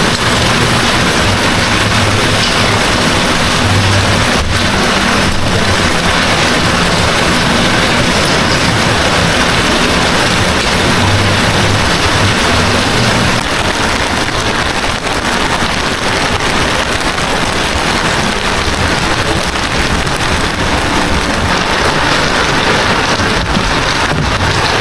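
Heavy rain pouring down steadily, with low rumbling now and then through the first half.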